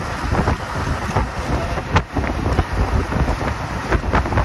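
Hino 1J bus on the move: steady engine and road noise with wind rush, broken by frequent short rattles and knocks.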